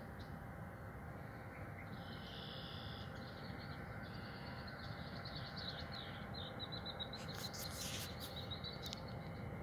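A songbird singing in short high phrases that repeat every second or two, breaking into a fast run of quick notes near the end, over a steady outdoor background hiss. A few sharp clicks sound late on.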